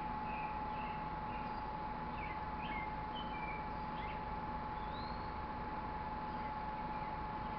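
Small songbirds chirping in short notes, busiest in the first half, with a longer slurred call about five seconds in, over a steady faint hum.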